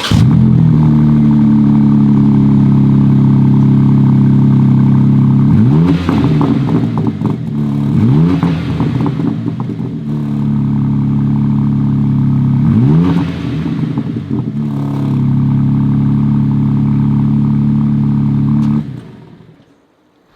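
2021 BMW M3 Competition's 3.0-litre twin-turbo straight-six idling steadily just after start-up, blipped three times with short rising revs, then switched off near the end.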